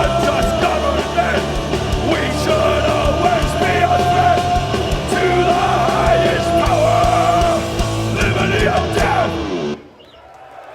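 Hardcore punk band playing live: loud distorted guitars, bass and drums with yelled vocals. The song cuts off abruptly near the end, leaving only a faint hall sound.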